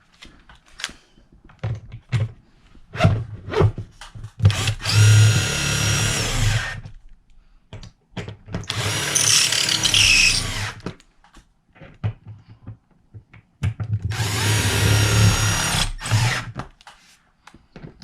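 Power drill driving in the mounting screws of an in-wall speaker, tightening the clamps that pull it into place. The drill runs three times for a couple of seconds each, with short clicks and knocks between the runs.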